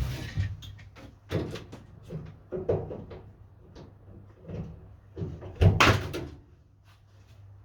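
Irregular knocks and clatter of objects being handled and set down on a work surface, with one louder thump about six seconds in. The jigsaw is not running.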